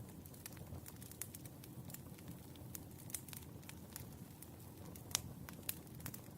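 Wood fire burning, with irregular sharp crackles and pops over a low, steady rumble of the flames; the loudest pop comes about five seconds in.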